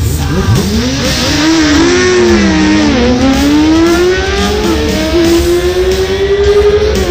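Racing motorcycle engines revving under acceleration, their pitch sweeping up and down in the first few seconds, then one engine's note climbing steadily as it accelerates, with rock music playing underneath.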